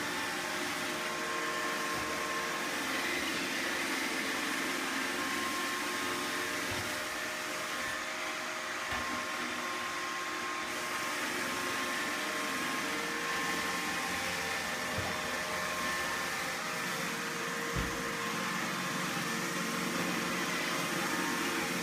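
Roomba robot vacuum running, its motor and brushes making a steady whirring hum with several steady tones. A few short low thumps come through at intervals, the loudest near the end.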